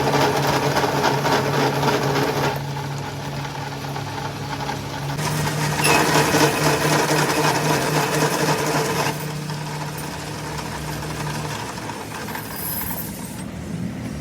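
Car engine running at a steady speed, a constant hum with a fixed pitch. Two louder, noisier stretches are laid over it, one at the start and one from about six to nine seconds in, and the hum drops away near the end.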